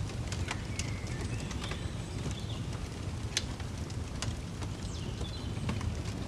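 Fireplace crackling, with sharp irregular pops over a steady low rumble, and a few short bird chirps about a second in and again near the end.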